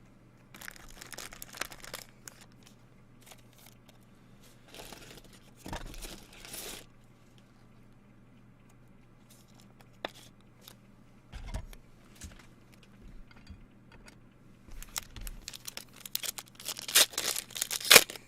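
Trading card pack wrappers being torn open and crinkled, with cards being handled, in uneven bursts that are loudest near the end. A faint steady hum runs underneath.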